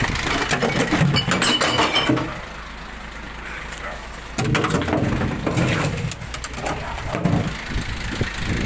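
Glass bottles and jars clattering and smashing into a glass recycling truck's bins in two bouts, the first in the opening two seconds and the second from about halfway to near the end. Under them the truck's diesel engine idles steadily.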